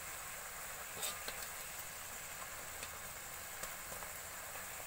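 Sliced onions sizzling steadily in a pan of bubbling sauce, with a few light clicks of the spatula against the pan as they are stirred.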